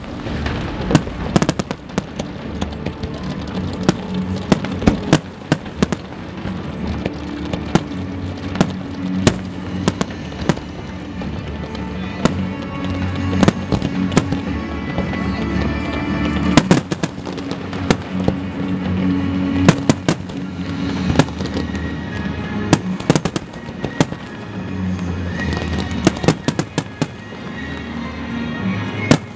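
Aerial fireworks bursting: many sharp bangs at irregular intervals, some in quick clusters, over music with long held notes.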